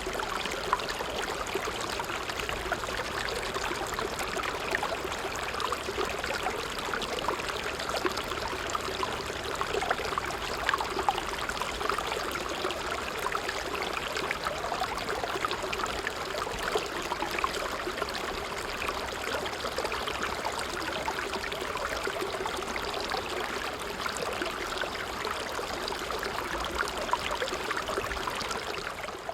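A stream running over stones, a steady trickling and bubbling of water with many small splashes. It fades down at the very end.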